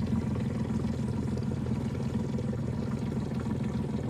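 A boat's motor running steadily, a low even hum, with water noise around the hull.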